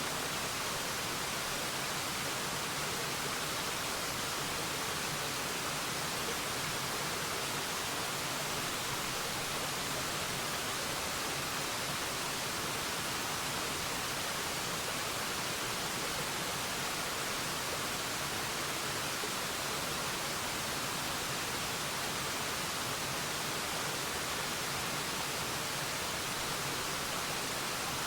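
Steady, unbroken rush of falling water from a waterfall, an even hiss weighted towards the high end with little low rumble.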